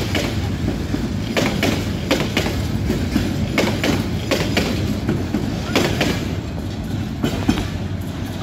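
Intercity passenger train coaches rolling past at speed, the wheels clacking over rail joints in an irregular run of sharp clicks over a steady rumble. The rumble eases slightly as the last coach goes by near the end.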